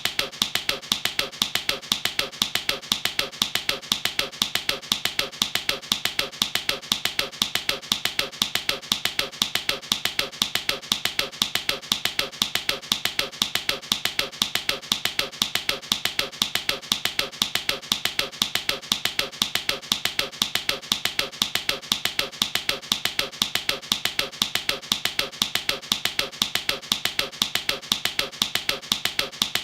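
Fast, steady tapping on a car's plastic coolant expansion tank, about five hollow knocks a second in an even rhythm.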